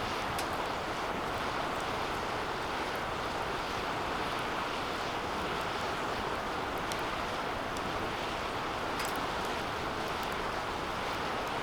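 Wood fire burning steadily in a DOD Mecha Moe Fire 2 metal fire pit: an even rushing roar of flame with a few faint crackles and ticks scattered through it.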